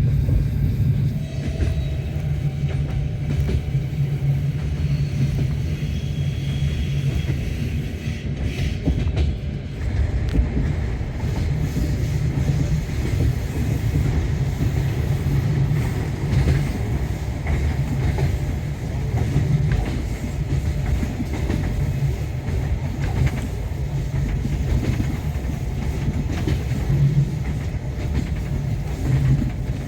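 A passenger train running along the track, heard from inside the carriage: the steady rumble of wagon wheels on the rails.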